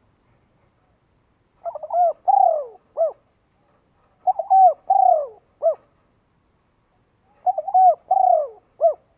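A dove cooing in three similar phrases, about three seconds apart. Each phrase is a quick stutter of short notes, then two longer falling coos and a short final note.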